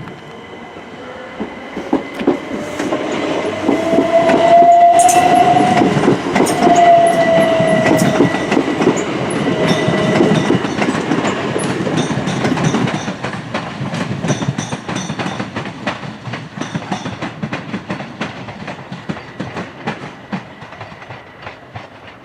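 Class 377 Electrostar electric multiple unit running in, its wheels clicking over rail joints, with a motor whine that rises and then falls. Loudest a few seconds in, fading away toward the end.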